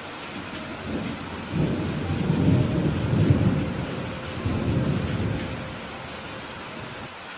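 Steady rain falling, with a rolling rumble of thunder that builds about a second and a half in, swells twice and dies away after about six seconds.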